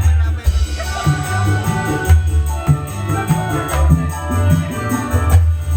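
Dangdut band music without vocals: a fast, even shaker-and-tambourine rattle over repeated deep drum beats and a sustained melody line.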